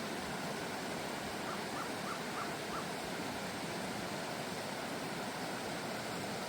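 Steady outdoor background hiss with a bird calling faintly five times in quick succession, about a second and a half in.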